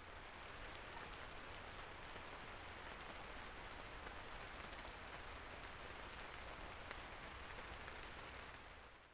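Heavy rain falling in a steady, even wash, fading out near the end.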